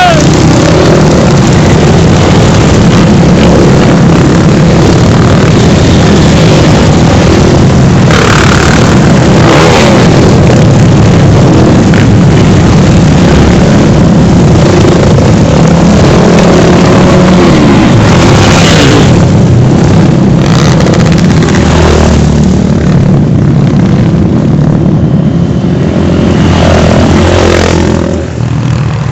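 Motorcycle engines running loud and steady, with revs rising and falling now and then; the level drops a little shortly before the end.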